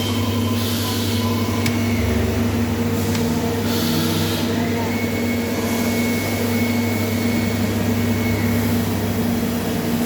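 CNC machine running on its Yaskawa servo drives and motors: a steady motor hum with a high whine. Short hisses come about a second in and again about four seconds in, with a couple of sharp clicks.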